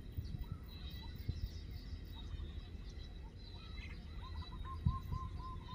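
Birds chirping faintly over a low rumble, with a quick run of short repeated chirps, about five a second, starting a little after the middle.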